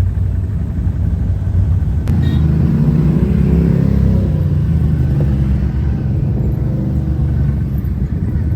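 Off-road vehicle engine running under way with a steady low rumble, its note rising for a moment about two to four seconds in. A single sharp click comes about two seconds in.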